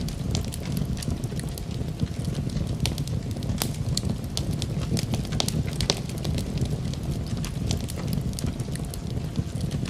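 Wood fire crackling, with frequent irregular sharp pops over a steady low rumble of the flames.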